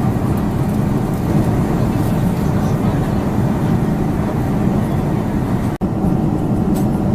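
Boeing 747-400 cabin noise in flight: a steady low rumble of engines and airflow, with a brief dropout about six seconds in.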